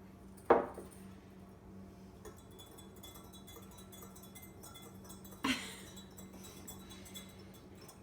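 Glass kitchenware clinking as ingredients are mixed: one sharp clink about half a second in, a second, weaker one about five seconds later, and faint light ticking in between.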